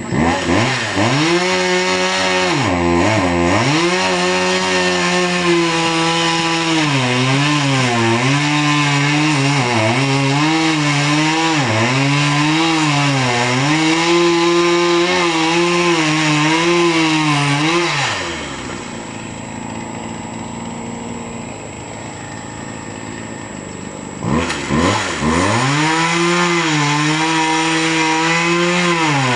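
Chainsaw cutting wood at high revs, its pitch dipping again and again as the chain bogs under load. A little past halfway it drops to a lower idle for several seconds, then revs back up and cuts again.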